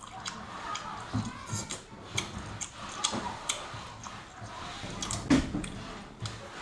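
Close-miked eating sounds of a large cooked prawn being chewed: irregular wet mouth clicks and smacks, with one louder knock about five seconds in.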